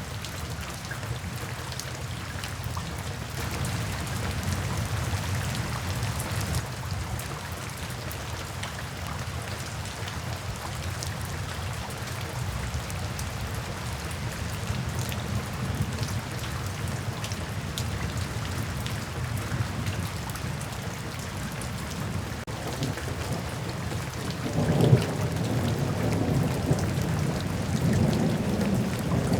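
Steady heavy rain with a low rumble of thunder. The thunder swells about 25 seconds in and goes on rolling to the end.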